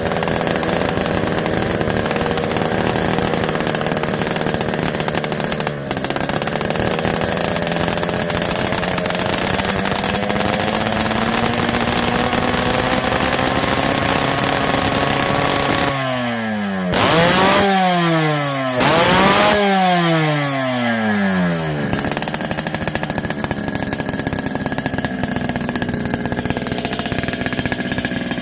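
Yamaha RX-King two-stroke single-cylinder motorcycle engine running through an opened-up, crisp-sounding exhaust with two of its baffles removed. It runs at a fast idle with slowly wandering pitch, then is revved twice in quick blips a little past the middle before settling back.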